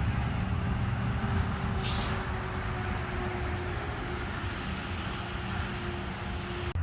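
Steady low rumbling outdoor background noise with a faint hum, and a brief high hiss about two seconds in.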